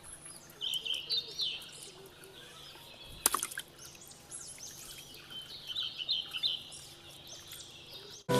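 Small birds chirping in scattered runs of short, high calls, with one sharp knock a little over three seconds in.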